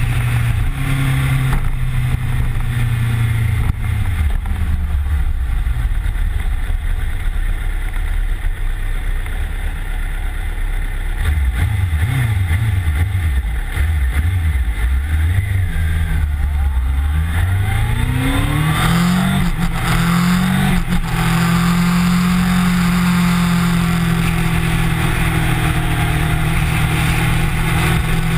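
Kawasaki Ninja motorcycle engine heard from a camera mounted on the bike, with wind rush over the microphone. The engine drops in pitch as the bike slows and runs low for several seconds. It then climbs steeply under acceleration, with a short break about twenty seconds in, and settles to a steady, higher cruising pitch.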